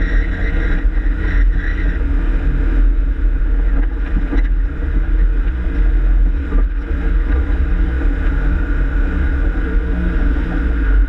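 4x4 vehicle's engine running under load as it climbs a steep rocky track, a steady low rumble with wind noise on the microphone.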